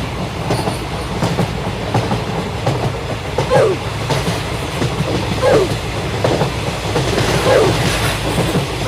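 Train running on rails: a steady low rumble with rail clatter and a short squeak about every two seconds.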